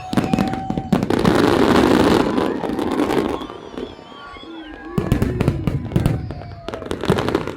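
Fireworks going off in quick succession, sharp bangs mixed with a dense crackling barrage about a second in that dies down around four seconds, then more bangs.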